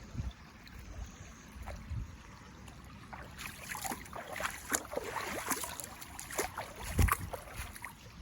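Bare feet wading through shallow, icy water, with irregular splashes that start about three seconds in and grow busier, and a low thump or two of wind on the microphone.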